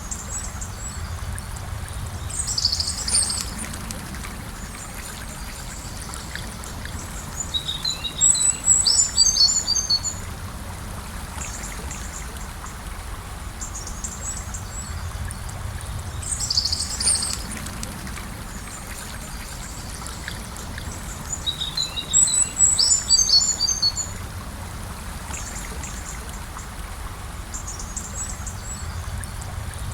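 Gentle river flowing steadily, with a small bird's high calls over it: short bursts of notes twice and two longer runs of quick twittering notes, the same pattern coming round about every 14 seconds.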